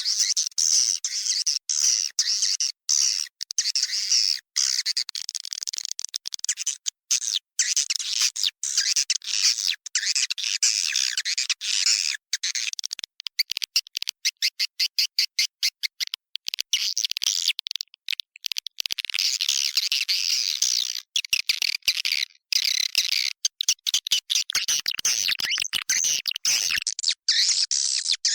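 Edible-nest swiftlets twittering and chirping in a dense, unbroken chatter, recorded inside a swiftlet house. This is a lure call, played to draw swiftlets in to roost and nest.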